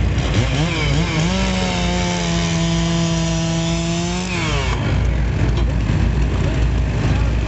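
Chainsaw revving up about half a second in, held at a steady high pitch for about three seconds, then dropping back. A steady low engine rumble runs underneath.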